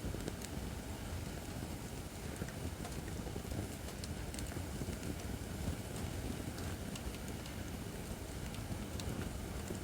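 Acacia firewood burning in a fire pit: a steady low rush of flame with scattered sharp crackles and small pops at irregular moments.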